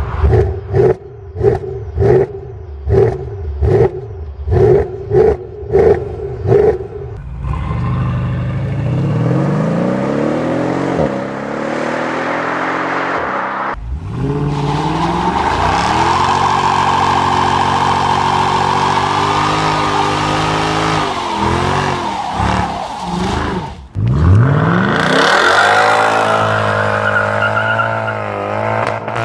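Mercedes-Benz S63 AMG (W221) with its M156 V8 revved in about eight sharp blips in quick succession. It then accelerates hard, the exhaust note rising in pitch and dropping back at each gear change, over several spliced clips.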